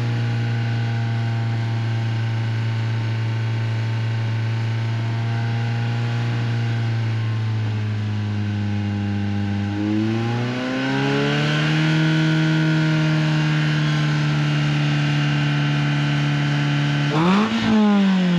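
Renault Twingo RS Gordini's 1.6-litre four-cylinder engine held at steady revs through an Inoxcar 80mm stainless steel aftermarket exhaust. About ten seconds in the revs climb and hold higher. Near the end a quick blip sends the note up, and then the revs fall away.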